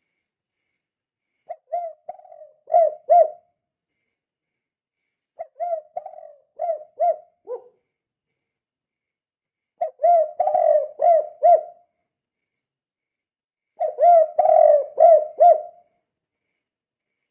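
Spotted dove singing the 'kuk 2' song type: four phrases of low, husky coos, each a quick run of four or five notes, a few seconds apart.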